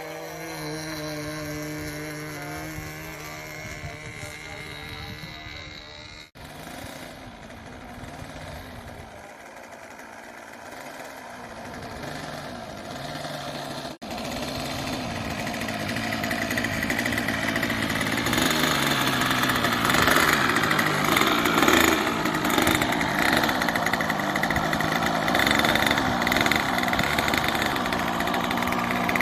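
OS 55 two-stroke glow engine of a radio-controlled trainer plane running, its pitch gliding gently as the plane flies. After two abrupt cuts the engine note grows steadily louder and stays loud to the end.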